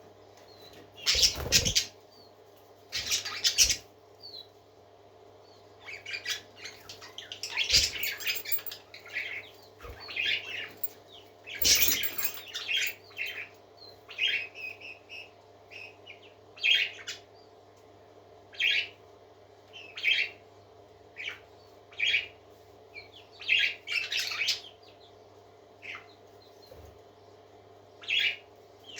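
Pet parakeets chirping and chattering in short separate bursts, some squawk-like, with a few louder rustling bursts among them. A faint steady hum runs underneath.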